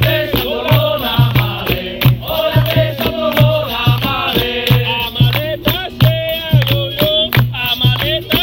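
Capoeira roda music: a group singing in chorus over a steady low drum beat of about two strokes a second.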